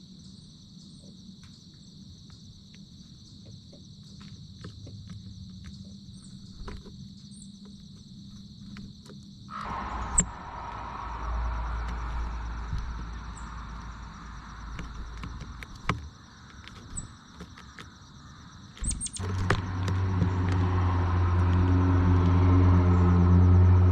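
Steady high chirring of insects. About ten seconds in a low rumble comes in, and over the last few seconds a low engine hum grows steadily louder.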